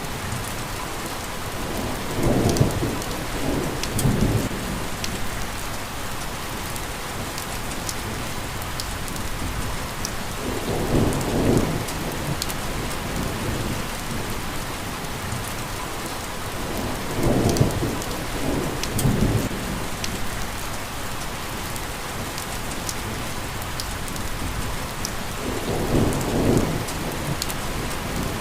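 Steady rain with scattered drop ticks, and four low rolls of thunder about seven seconds apart, each rumbling for about two seconds.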